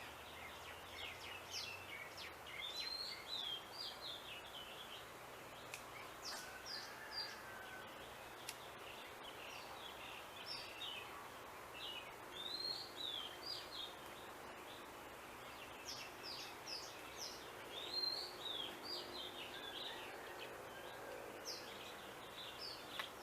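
Small birds chirping in quick runs of short, high, down-sliding notes over a steady outdoor background hiss.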